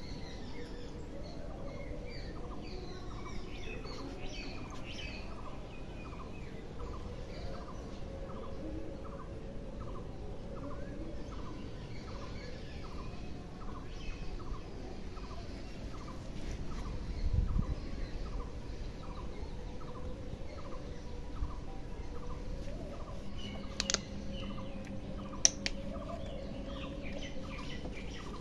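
Bird calls: one bird repeats a short note evenly, about one and a half times a second, while others chirp now and then. There is a dull thump about halfway through and two sharp clicks near the end.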